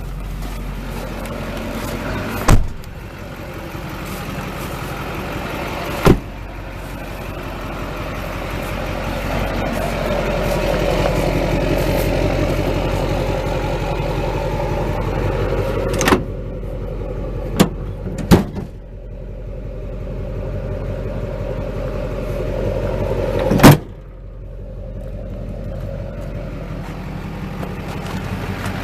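Chevy Silverado's Duramax diesel engine running steadily, its drone rising for a while in the middle. Six sharp clunks break through it, the loudest near the end.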